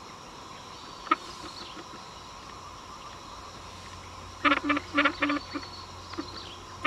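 A frog calling a quick series of about five croaks, starting about four and a half seconds in, over a steady distant machinery drone from a palm-oil mill. A single sharp click about a second in.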